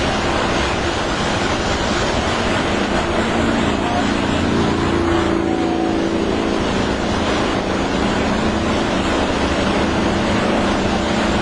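Steady running noise inside a moving vehicle: a constant rush of road and wind noise with a low engine hum underneath.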